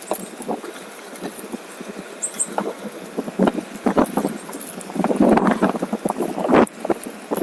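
OneWheel electric board rolling over a rough trail surface: a stream of irregular crackles and knocks that grows louder and denser about five seconds in.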